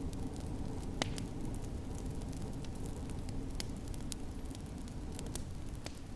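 Wood fire in a fireplace crackling, with sharp pops scattered irregularly through it, the loudest about a second in, over a steady low rumble.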